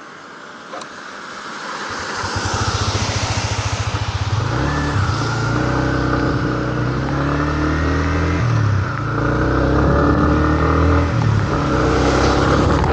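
Motor vehicle engine starting to pull away and accelerating. Its low pitched running steps up and down a few times, with a steady hiss of road noise.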